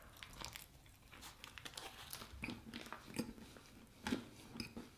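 Faint chewing of a mouthful of crusty baguette with cheese, with soft irregular crunches of the bread crust.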